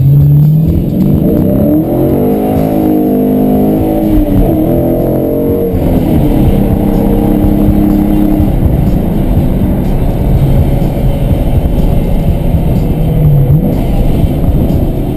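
Dodge Challenger's engine heard from inside the cabin while driving. The revs climb right at the start, rise and fall between about two and six seconds in, then settle into a steady cruise under a constant low rumble. Music plays from the car stereo.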